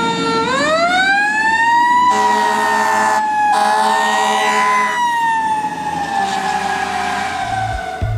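Fire truck siren wailing: the tone climbs over the first couple of seconds, wavers up and down, then slowly winds down toward the end. A second steady tone sounds alongside it in the middle.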